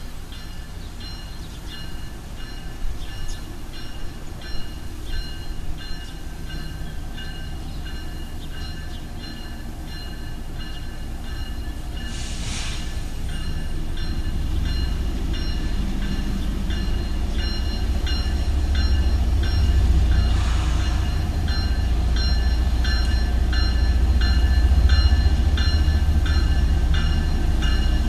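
CSX diesel freight locomotives approaching on street-running track, their low engine rumble growing steadily louder as they near, while the grade-crossing bells ding in a steady repeating rhythm.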